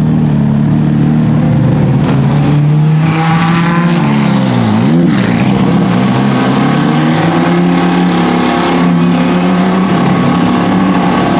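BMW M4 GT3 race car's twin-turbo straight-six running hard on track, with overlapping engine notes. About four to five seconds in, one engine's pitch drops sharply and climbs straight back up as a car goes by.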